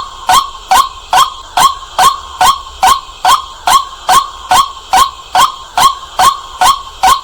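White-breasted waterhen giving its loud, clear 'kwak' call over and over, about two to three calls a second at a very even pace, as played for luring the birds at night.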